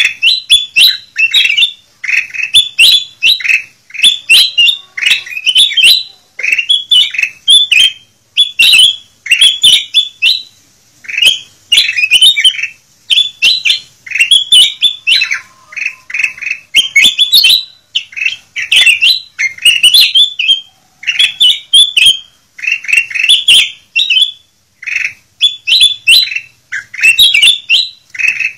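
Kutilang emas bulbul singing steadily: short, quick phrases of clear chirping notes, about one phrase a second, repeated without pause.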